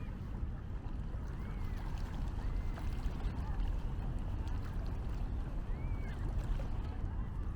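Beach ambience: a steady low rumble of wind and water, with faint distant voices.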